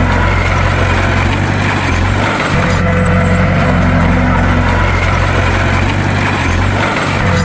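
Bulldozer engine running steadily under load, with its low note dipping briefly twice.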